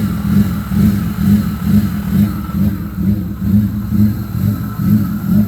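BMW E36 engine idling unevenly, its low rumble rising and falling about twice a second. The lumpy idle fits a car that the owner says doesn't like to idle and keeps stalling.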